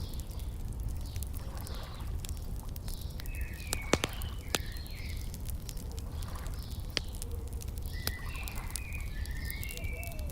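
Wood fire crackling with scattered sharp pops, the loudest about four seconds in, while small birds chirp in short repeated calls over a low steady rumble of outdoor ambience.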